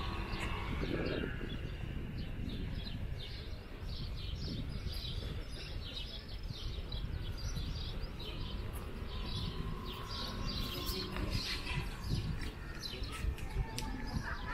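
Small birds chirping, with many short, sharp chirps one after another, over a steady low background rumble.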